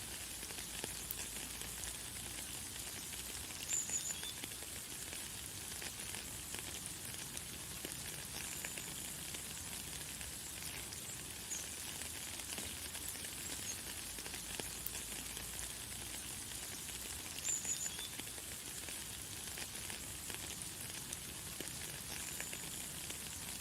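Light, fine rain falling steadily, a soft crackling hiss, with a bird giving brief high chirps now and then, most clearly about four seconds in and again past the middle.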